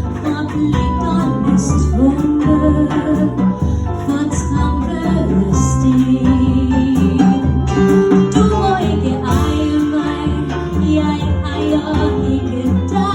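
A small band playing a 1930s-style song live, with wavering melody lines over a steady low accompaniment and no words sung.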